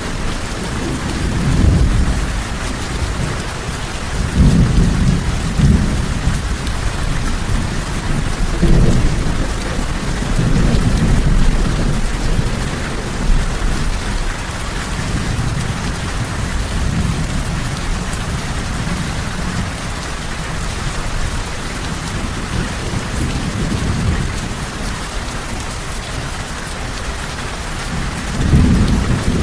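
Steady heavy rain with thunder, low rolling rumbles that swell and fade several times, the strongest about five seconds in and again near the end.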